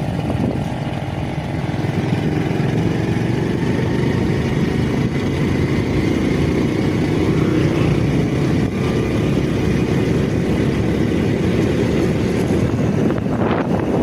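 A vehicle running: a steady low rumble with faint, slowly drifting higher tones.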